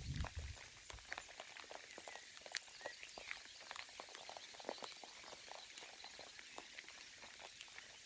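Light rain falling, scattered drops pattering irregularly over a faint steady hiss, with a brief low rumble at the very start.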